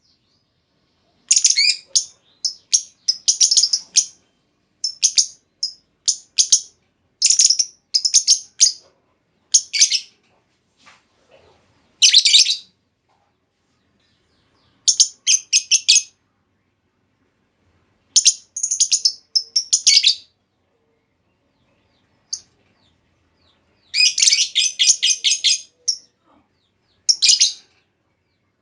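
Female lovebird calling in short bursts of rapid, high-pitched chattering chirps, separated by silent gaps of a second or more.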